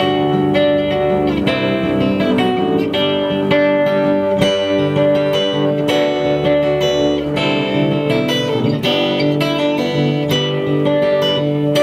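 Live instrumental Americana band music: guitars picked and strummed over long held notes, playing steadily.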